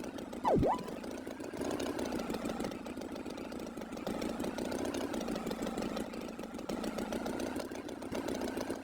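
Cartoon tractor engine idling steadily with an even chugging pulse. About half a second in, a brief swooping tone dives down and springs back up.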